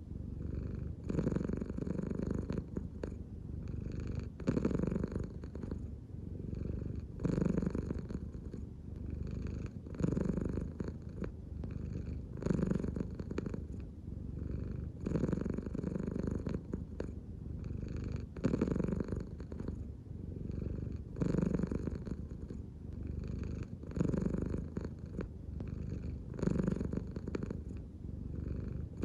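An American Shorthair cat purring steadily, the purr swelling and easing in a regular rhythm about every two and a half seconds as it breathes in and out.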